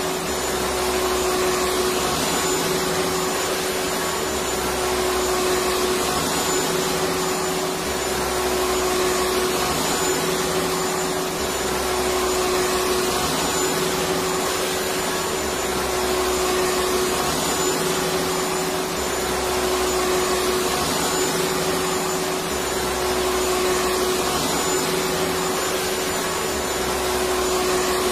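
Electric vacuum cleaner running steadily: a constant rushing hiss of air with a steady motor whine, and a low hum underneath that swells and fades every few seconds.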